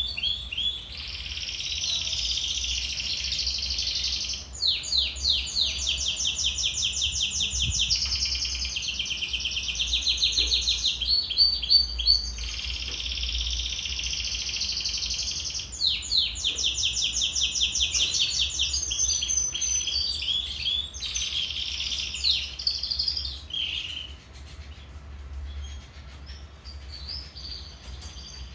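Domestic canary singing a long, continuous song of fast trills and rolls, each phrase a rapid string of repeated high notes; about 24 s in, the song breaks off into quieter scattered chirps.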